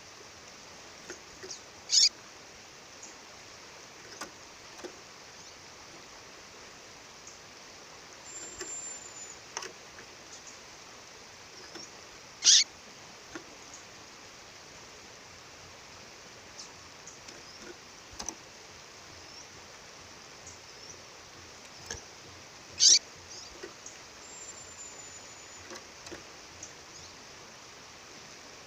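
A female bird calling: three loud, very short sharp calls about ten seconds apart, each sweeping down from high to middle pitch. A few faint thin high notes lie between them, over the steady rush of a waterfall.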